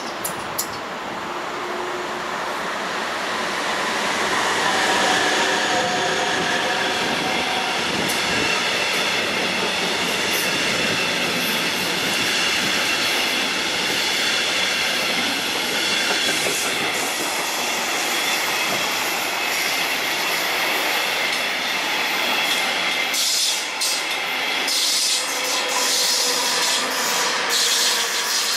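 Electric-locomotive-hauled double-deck regional train passing close by, its wheels clattering on the rails with a steady high-pitched squeal. The sound builds over the first few seconds, and a run of sharp clicks comes near the end as the last vehicles pass.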